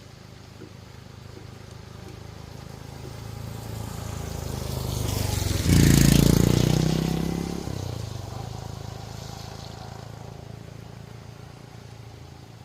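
A motor vehicle passing by: its engine grows steadily louder, is loudest about halfway through, then fades away.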